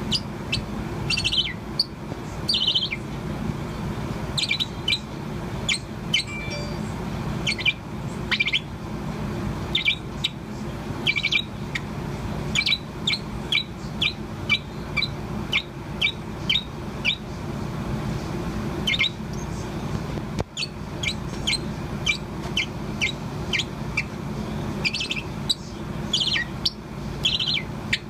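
Young Bourke's parrot, about four months old, singing continuously: a string of short, high chirps with a few brief warbled notes in between. A steady low hum runs underneath.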